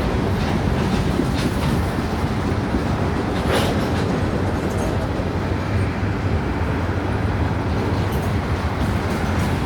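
Freight cars of a CSX mixed freight train rolling past, a steady rumble of wheels on rail with light clicking over the joints. One brief, sharper sound about three and a half seconds in.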